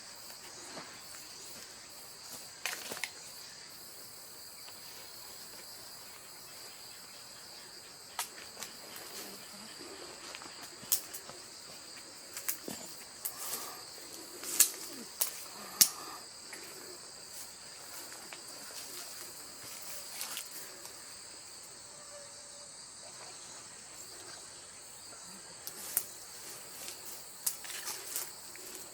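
Steady chorus of crickets and other autumn insects, a continuous high-pitched trill, with a scattering of short sharp clicks and rustles from movement close by.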